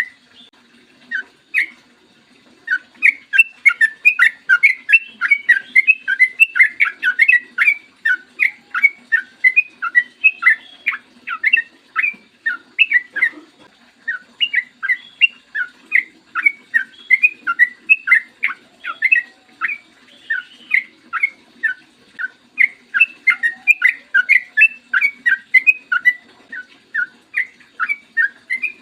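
Yellow-vented bulbul (trucukan) singing a long, rapid run of short, bubbly whistled notes, about three or four a second, with a brief pause near the start and another about halfway through.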